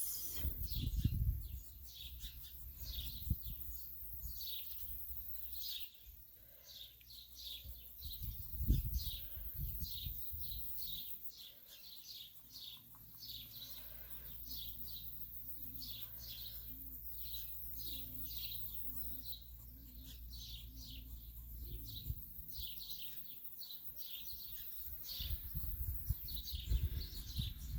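Small birds chirping continuously in a rapid series of short, high, falling chirps. Gusts of wind buffet the microphone about a second in and again around nine seconds in.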